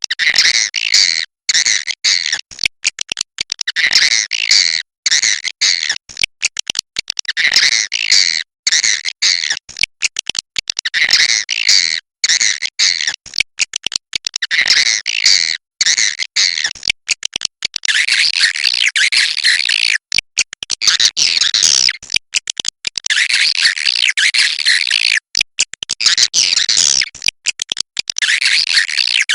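Swiftlets chattering in dense, high, buzzy twitters that come in repeating phrases every few seconds and run more continuously in the second half: a swiftlet 'inap' (roosting) call recording of the kind played in swiftlet houses to make the birds settle and stay.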